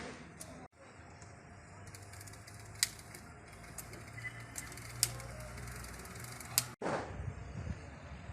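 Sharp clicks and light taps of hand tools at work on a bicycle, a few seconds apart, over a low steady hum. The sound drops out briefly twice.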